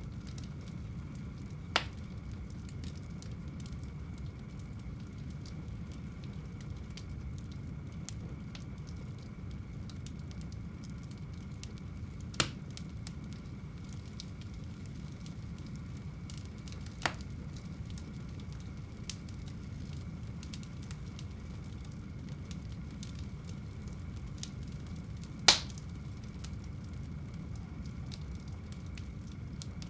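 Wood fire burning in a home fireplace: a steady low rumble with faint crackling, broken by four sharp pops from the burning logs, the loudest near the end.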